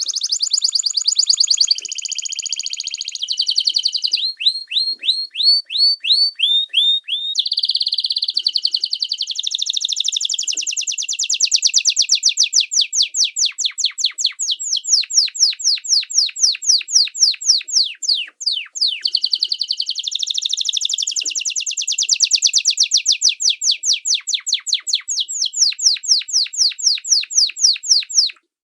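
Small songbird singing a long, fast song of rapid repeated high whistled notes that sweep down in pitch, switching to a new trill every few seconds; it cuts off suddenly near the end.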